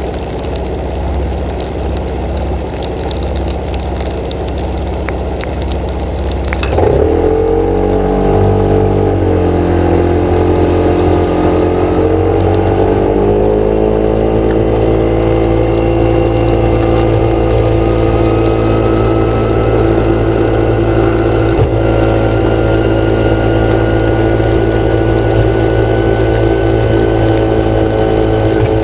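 An engine running steadily; about seven seconds in it speeds up and then settles into a steady higher-pitched run.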